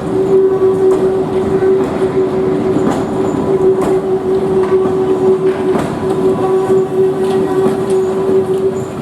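Train running past, wheels clicking over rail joints at uneven intervals, with a steady high tone throughout that fades near the end.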